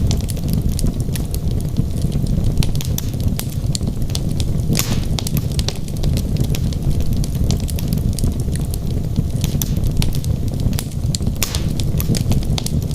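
Wood fire burning in a fireplace: a steady low rumble of flames with irregular sharp crackles and pops from the burning logs, one louder pop about five seconds in.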